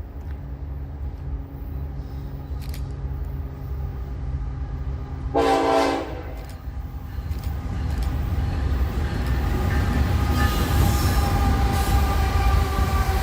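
Diesel freight locomotive approaching, its low engine rumble steady. A short horn blast sounds about five seconds in, then the engine sound grows louder from about eight seconds as the train draws near.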